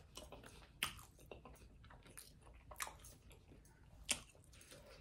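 A person chewing a mouthful of Cajun chicken drumstick: faint chewing with a few short mouth clicks, the clearest about a second, three seconds and four seconds in.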